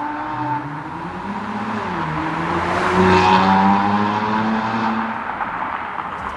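Porsche Panamera engine running through an Armytrix valved aftermarket exhaust, the note climbing to its loudest about three seconds in, then easing off.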